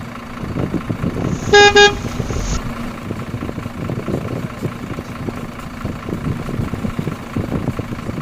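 Vehicle horn honking twice in quick succession about a second and a half in, over a steady low hum and irregular low rumbling.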